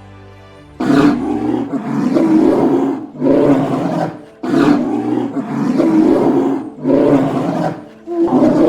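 A big cat roaring: a series of about five loud, rough roars in quick succession, starting about a second in.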